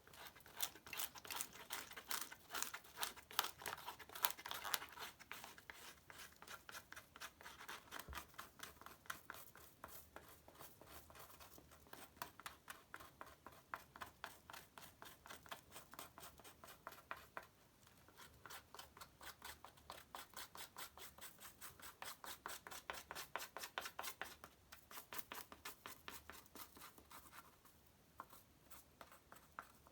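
Blade scraping birch bark in quick, even strokes, several a second, raising fine bark shavings to catch a spark; the scraping pauses briefly twice, past halfway and near the end.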